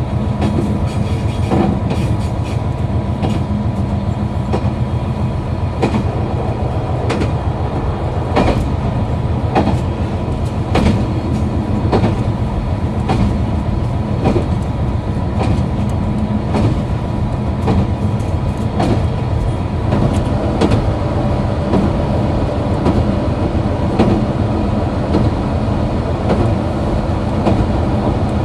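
KiHa 261 series diesel railcar's engine running steadily while the train is under way, with the wheels clicking over rail joints at irregular intervals.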